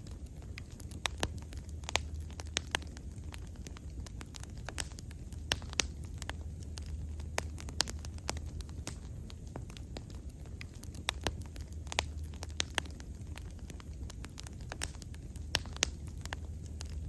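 Bonfire burning, wood crackling and popping in sharp irregular snaps over a low steady rumble of the flames.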